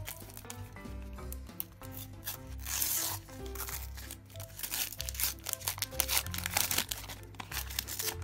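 A foil sticker packet is torn open about three seconds in, then its wrapper crinkles as the stickers are pulled out, over background music.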